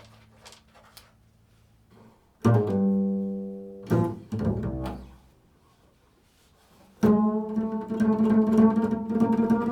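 Improvised instrumental music on a low-pitched string instrument. A couple of low notes sound and ring away, there is a pause, and then a sustained low note with rich overtones comes in about seven seconds in.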